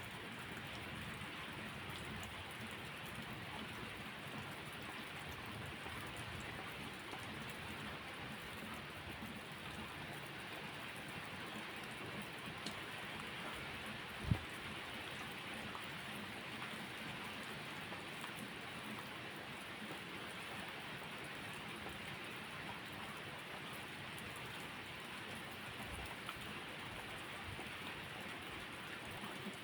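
Steady rain falling and pattering on surfaces, with a single low thump about halfway through.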